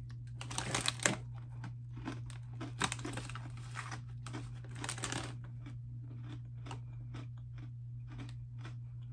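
Crunchy Cheetos pretzel snacks being bitten and chewed: a dense run of crisp crunches for about the first five seconds, then fainter, more scattered chewing crunches.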